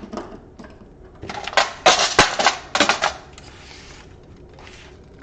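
Hard plastic and metal laptop parts clattering and clicking as the partly stripped laptop is handled during disassembly, in a cluster of rattles with one sharp click in the middle, then a softer rustle.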